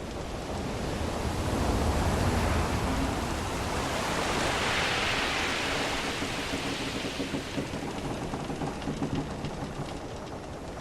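Sea waves washing around a wooden ship, one swell building over the first few seconds and ebbing away toward the end, with faint low creaks of the ship's timbers in the second half.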